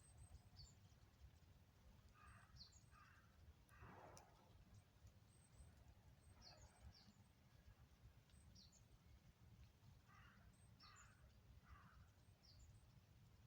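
Faint outdoor ambience of birds calling: harsher calls in groups of two or three, the strongest about four seconds in, and short high chirps scattered between them, over a low steady rumble.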